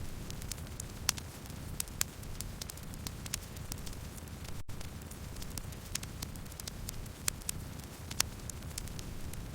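Campfire burning, with a steady low rumble and irregular sharp crackles and pops of the burning wood. The sound drops out for a split second about halfway through.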